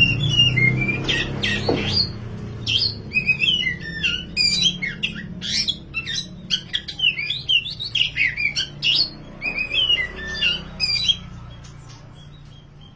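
Oriental magpie-robin (black 'kacer wulung' form) in full song: a fast, varied stream of whistles and chirps that stops about eleven seconds in. A low hum lies underneath, strongest in the first couple of seconds.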